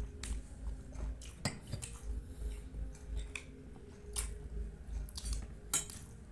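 Close-up wet chewing and lip-smacking of soft, syrupy Indian sweets, with a few sharp mouth clicks at irregular moments.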